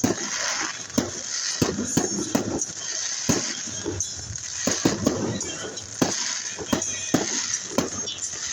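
Fireworks going off in irregular sharp bangs, one to three a second, with music playing underneath.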